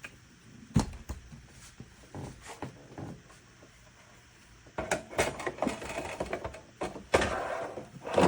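Plastic coffee-machine parts being handled, with knocks and clicks, a sharp knock about a second in, and a longer stretch of clattering near the end.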